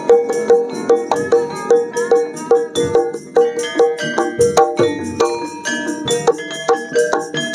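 Javanese gamelan ensemble playing: struck bronze metallophones and gong-chimes ringing out in a steady interlocking rhythm, with one mid-pitched note repeating on a regular pulse.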